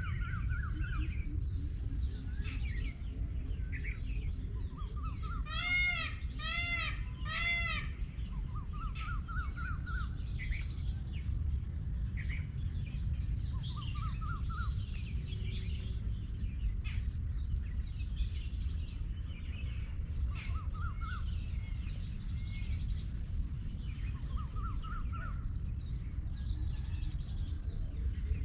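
Peacock calling three times in quick succession about six seconds in, each call a loud arching wail, while small birds chirp on and off throughout over a steady low rumble.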